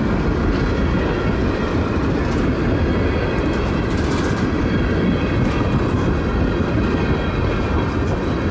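Buffalo and Pittsburgh freight train's tank cars rolling past close by: a steady, loud rumble of steel wheels on rail, with a few sharp clacks about two and four seconds in as wheels cross rail joints.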